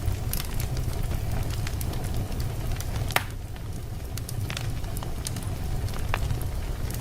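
Wood fire burning in a fireplace: a steady low rumble of flames with scattered crackles and pops, the sharpest pop just after three seconds in.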